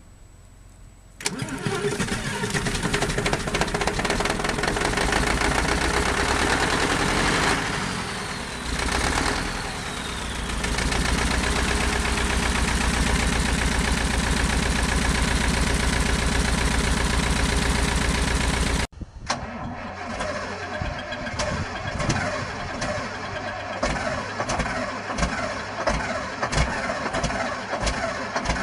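Large diesel engine cold-starting: it catches abruptly about a second in and runs loud, dipping briefly midway before picking up again. Near the end an abrupt cut brings in a different diesel engine running with a regular knock about twice a second.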